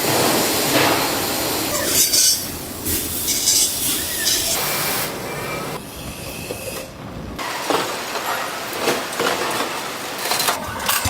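Factory machinery noise with clatter, clinks and hiss, changing abruptly a couple of times.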